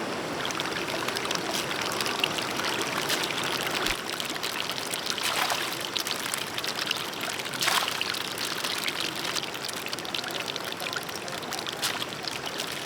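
Water trickling and pouring steadily, with a couple of louder splashes about five and a half and seven and a half seconds in.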